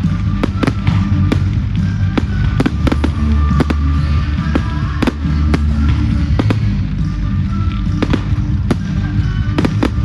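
Fireworks going off in quick, irregular succession, many sharp bangs and cracks, with music playing underneath.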